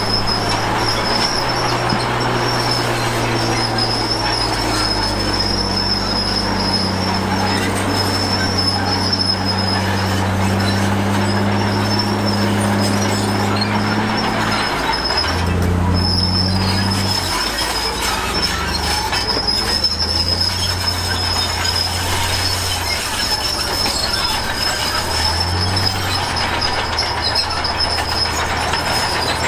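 Komatsu D53P crawler bulldozer working: the diesel engine runs under changing load, its pitch shifting several times, while the tracks give a steady high metallic squeal almost throughout.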